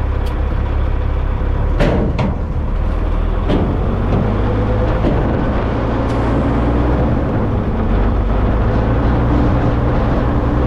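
Heavy truck's diesel engine running steadily under way, with a few sharp clicks about two and three and a half seconds in.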